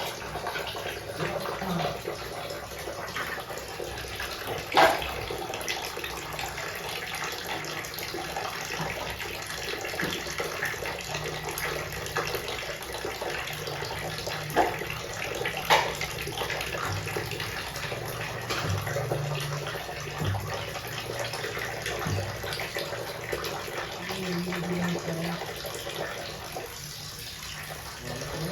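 Tap water running steadily while a pet parrot bathes, with a few short, sharp sounds now and then.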